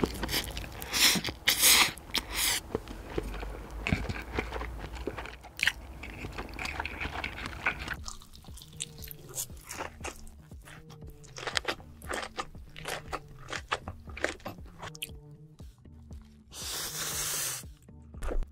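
Close-miked eating sounds: rapid chewing, crunching and biting of food. About halfway through, quiet background music with a stepped melody comes in under the chewing, and a broad rush of noise lasts about a second near the end.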